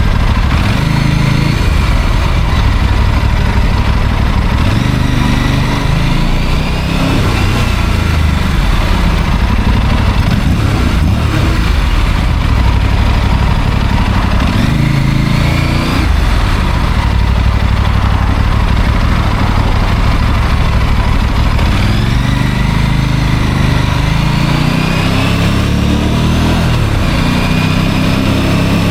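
Motorcycle engine running while riding in traffic, its pitch climbing and falling again several times as the throttle is opened and eased off.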